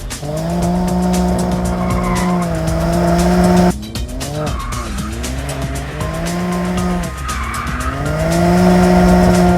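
BMW M2 CS's 3.0-litre twin-turbocharged inline-six engine running hard at high revs, the pitch held, dipping and climbing back several times as the car is driven. The sound breaks off abruptly about four seconds in and resumes with the revs rising again.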